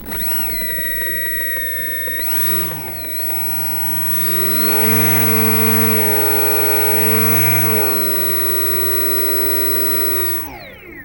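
Aero Scout's electric motor whining as the throttle is opened and eased back: it rises, dips briefly, holds a higher pitch for a few seconds, then drops and spins down to a stop near the end.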